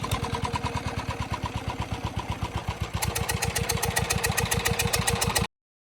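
Diesel engine running with a fast, even thumping beat. About three seconds in it becomes louder and harsher, and the sound cuts off abruptly shortly before the end.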